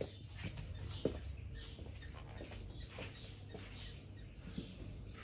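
Trapped hoopoe chirping: a steady run of short, high, thin chirps, about three a second. A brief hiss comes near the end.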